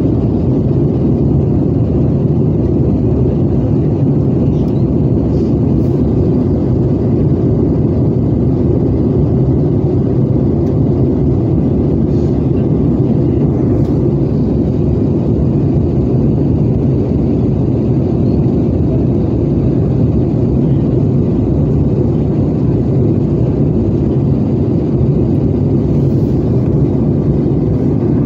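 Steady cabin noise of an Airbus A320-214 descending toward landing: an even low rumble of airflow and engines, with a faint steady hum.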